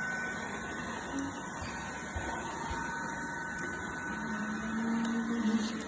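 Vacuum cleaner running steadily, a hiss with a faint high whine.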